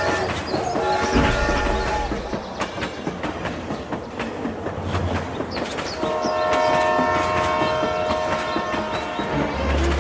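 A horn sounding long, held chords twice, once near the start and again from about the middle to near the end, over a continuous rapid clattering and clicking.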